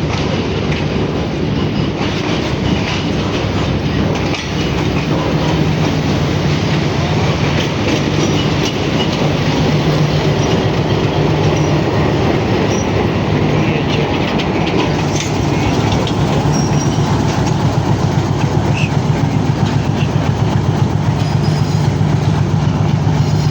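Railcar running along the track: a steady low engine hum with rolling wheel noise and clickety-clack on the rails, getting a little louder towards the end.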